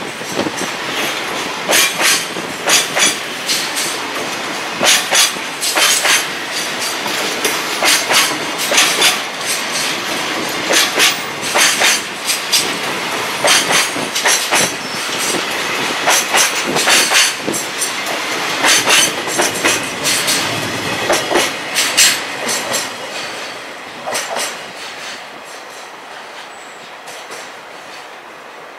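Wheels of a long freight container train clattering over rail joints: sharp clacks in quick pairs and groups over a steady rolling rumble. The clatter thins out and fades near the end as the last wagons pass.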